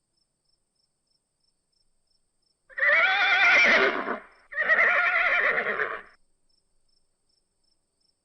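A horse whinnying: two long, wavering whinnies, one right after the other, starting about three seconds in.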